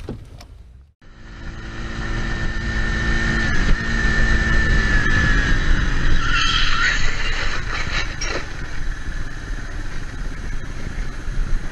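Vehicle recorded on board, likely a motorcycle: engine and heavy wind rumble with a steady whine, starting after a short dropout about a second in. About six seconds in comes a brief squeal that bends up and down, then a few sharp knocks about two seconds later.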